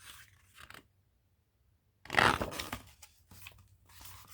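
Paper rustling as a book page is turned, with the loudest crinkle just after two seconds in and softer rustling around it.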